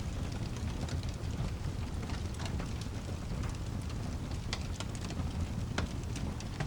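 Steady rain over a low, continuous rumble, with scattered sharp crackles and pops from a wood fire.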